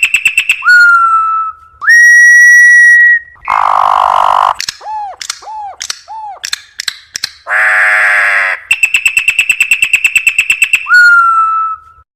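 Campo troupial (corrupião) singing a varied song: long clear whistled notes, fast trains of rapidly repeated notes, harsh rasping calls, and a run of short down-slurred notes. The song breaks off near the end.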